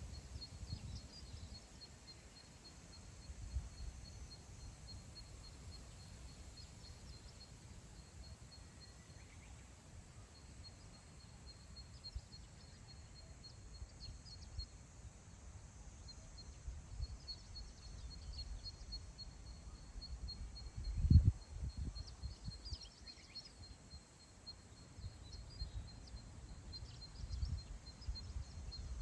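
Wind across open grassland, gusting in low rumbles on the microphone, with the strongest gust about two-thirds of the way in. Over it runs a steady, high, pulsing trill with scattered short chirps from small birds.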